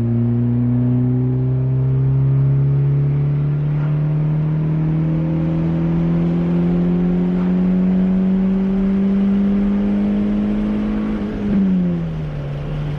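Turbocharged Honda D15B 1.5-litre four-cylinder pulling through third gear under full throttle, revs climbing steadily for about eleven seconds, then dropping sharply near the end as the throttle is lifted. The pull makes only about 2 psi of boost; the cause turned out to be the blow-off valve having come off.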